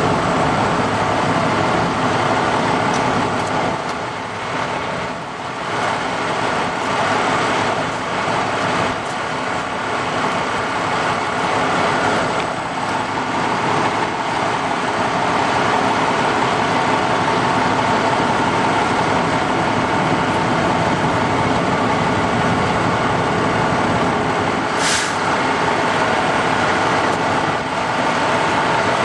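Steady noise of idling vehicle engines, with a brief hiss about 25 seconds in.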